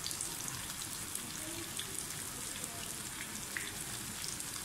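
Chicken chapli kababs shallow-frying in hot oil in a pan: a steady sizzle with many small crackling pops.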